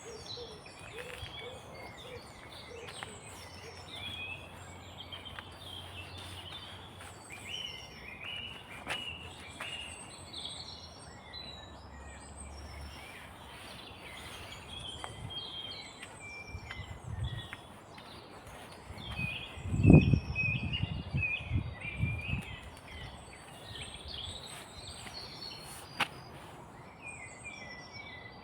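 Several small songbirds singing and calling in woodland, many short overlapping chirps and trills throughout. About twenty seconds in, a run of loud low thumps lasting a few seconds breaks through.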